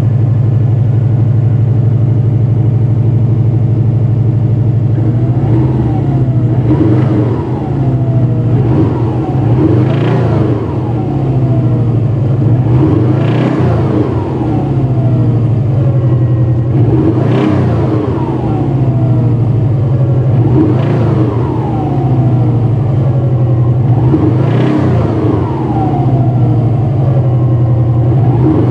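Subaru EJ205 turbocharged flat-four running after a cold start, steady at first, then revved up and back down about every three and a half seconds, seven times. It has a knock that the owner suspects is a worn bearing shell.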